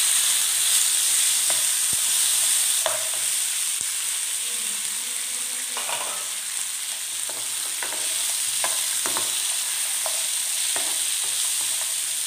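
Tomato pieces, cashews and whole spices sizzling in hot mustard oil in a frying pan, a steady hiss, with a steel spoon scraping and knocking against the pan as they are stirred, more often in the second half.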